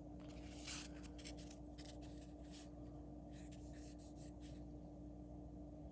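Faint, intermittent rustling and sliding of Pokémon trading cards being handled and shuffled from a freshly opened booster pack, over a steady low electrical hum.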